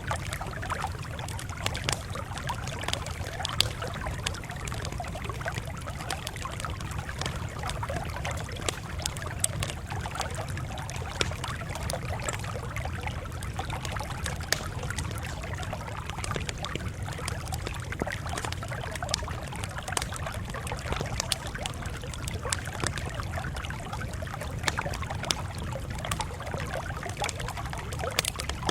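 Campfire crackling: frequent irregular sharp pops and snaps over a steady low rumble.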